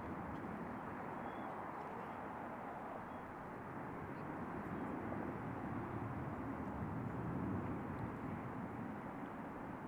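Distant jet aircraft noise: a steady rumble that swells slightly about seven to eight seconds in.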